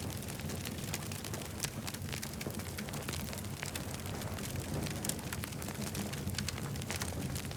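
Campfire crackling: many small sharp pops and snaps from the burning wood, irregular and close together, over a steady low rumble.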